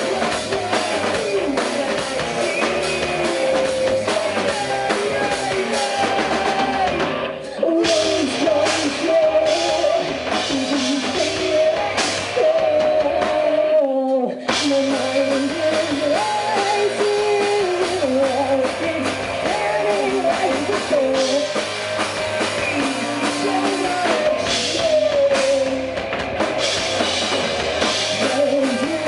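Rock band playing with drum kit, guitar and singing, briefly dropping out about halfway through before carrying on.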